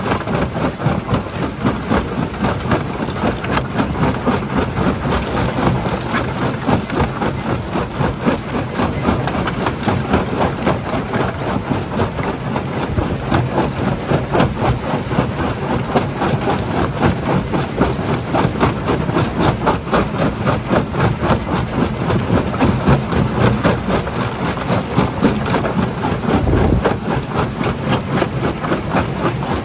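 Stone crusher running under load: a steady heavy machine drone with a dense, continuous clatter of rock being broken.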